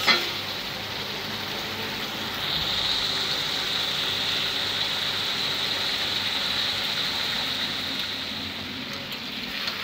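Onion and ground-spice masala sizzling in hot oil in a kadai as it is fried down, a steady hiss that grows a little louder about two and a half seconds in. A short knock at the very start.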